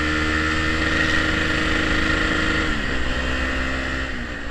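Honda XR250 Tornado's single-cylinder engine running through a Pro Tork aftermarket exhaust, a steady engine note whose pitch drops a little about three seconds in and again near the end.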